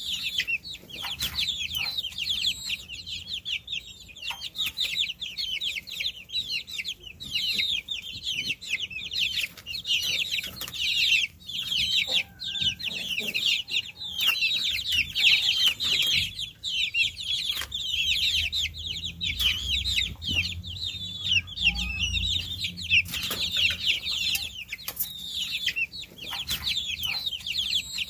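A brood of baby chicks peeping non-stop, many short high calls overlapping. A low rumble comes in underneath about twenty seconds in.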